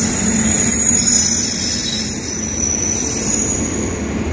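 Express passenger train coaches rolling past the platform at speed without stopping: a steady rumble of wheels on rail, with a low hum that fades about a second in.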